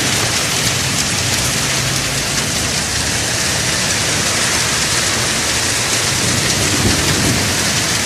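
Heavy downpour: rain pouring onto a wet street and pavement in a steady, loud hiss.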